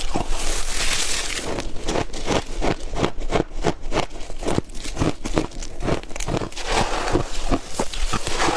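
Chunky freezer-frost ice bitten and crunched between teeth close to the microphone: a rapid, continuous run of crisp crunches.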